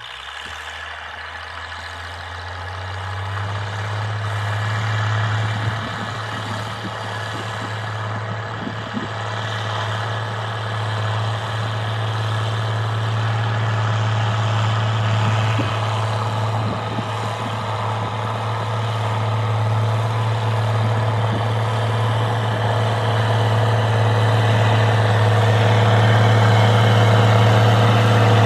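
FIAT 1300 DT Super's six-cylinder diesel engine running steadily under load as the tractor pulls a ripper through the soil, growing louder throughout.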